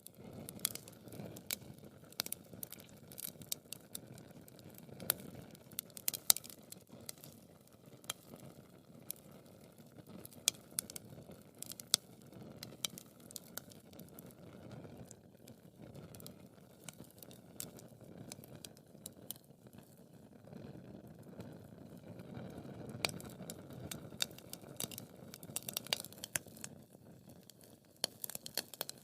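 Wood fire burning in a fireplace, crackling with frequent irregular sharp pops and snaps over a steady low rush of flames.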